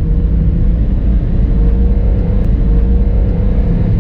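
Car driving on a rough road, heard from inside the cabin: a steady low rumble of engine and road noise, with a faint engine note rising slightly in pitch.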